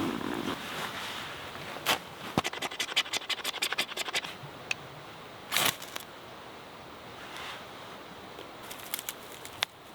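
Scratching and scraping sounds: a few sharp clicks, then a quick run of rapid clicks about two and a half seconds in, and a louder scrape a little past halfway.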